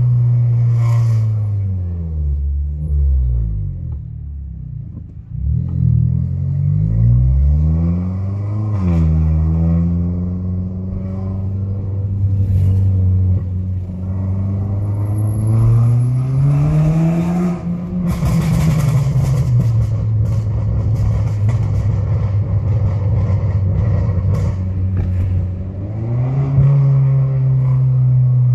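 Renault Mégane GT's engine and exhaust, fitted with a silencer, heard from inside the cabin while driving through town. The engine note sinks as the car slows early on, then climbs with acceleration several times, with a gear change partway through where the pitch drops sharply.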